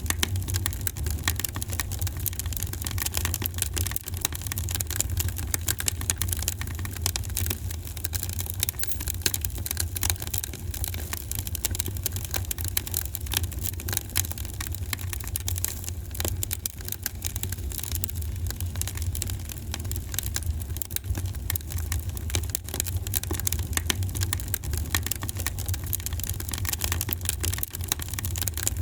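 Wood fire in a fireplace crackling, with many small, sharp, irregular pops over a steady low rumble.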